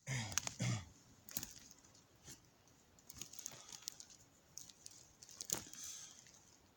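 Scattered sharp crackles and rustles, irregular and brief, after a short voice-like sound in the first second.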